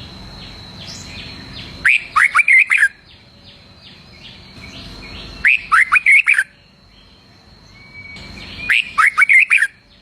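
Red-whiskered bulbul singing: three loud, quick phrases of swooping whistled notes, each under a second long and a few seconds apart, with softer chirps between them.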